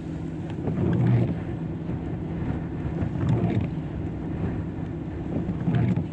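Stormy wind buffeting the microphone over the steady low rumble of heavy surf, swelling in gusts about a second in, around three seconds in and near the end.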